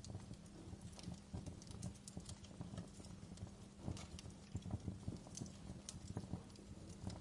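Wood fire crackling in a stone fireplace: irregular small pops and snaps with soft low knocks, never settling into a rhythm.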